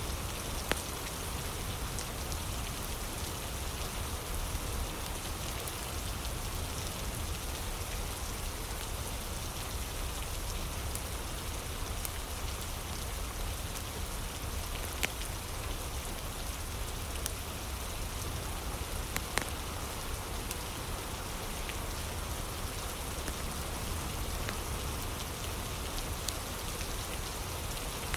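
Steady rain falling, with a few scattered sharp pops and crackles from a wood fire.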